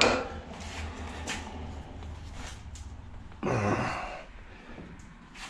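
A man's voiced sigh, dipping in pitch and coming back up, about three and a half seconds in. It follows a sharp knock at the start and light clatter of scrap being handled.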